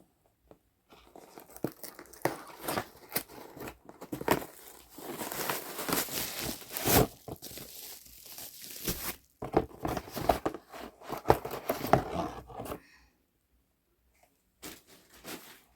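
A cardboard box and its packaging being torn open by hand: irregular tearing, rustling and crinkling with sharp clicks. The sounds stop about thirteen seconds in, followed by a few brief handling sounds near the end.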